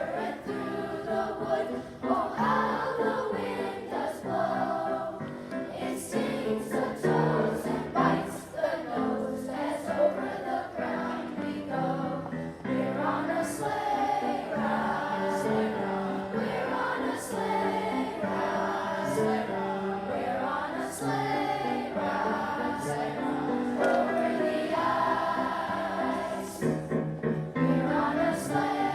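A choir of schoolchildren singing a song, with short sharp clicks now and then over the singing.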